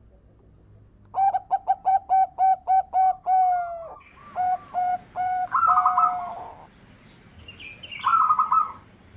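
Zebra dove (perkutut) cooing. From about a second in comes a quick run of about nine short, evenly spaced notes, then looser cooing phrases with higher trilled notes around six and eight seconds in.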